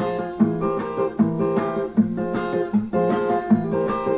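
Brazilian viola, a ten-string guitar, strummed in a steady repeating chord pattern of about two to three strokes a second, playing alone between sung verses.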